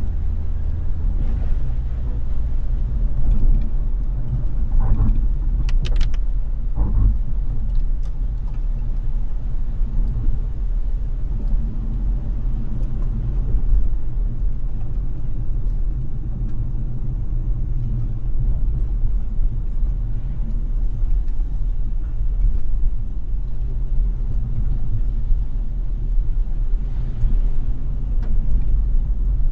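Car driving with a steady low road rumble. A few brief high-pitched squeaks come about five to seven seconds in.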